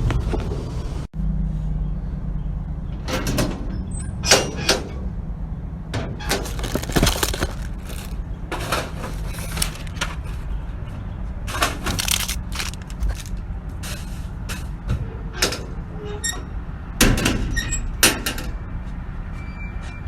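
Industrial grocery store baler running: a steady low hum from its motor, with irregular sharp cracks and snaps throughout as the load is crushed.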